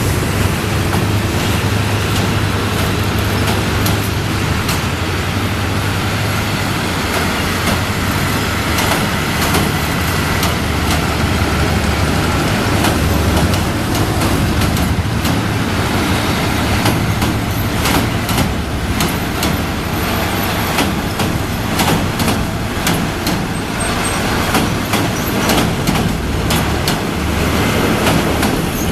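Diesel train on a rail bridge: a steady low engine drone, with wheels clicking over the rail joints more and more often in the second half.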